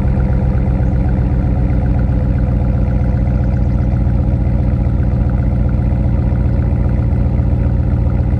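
2015 Ram 1500's 5.7 Hemi V8 idling steadily through a muffler-deleted exhaust with a Y-pipe, the rear resonators left in; a deep, loud, even exhaust note from the still-cold engine.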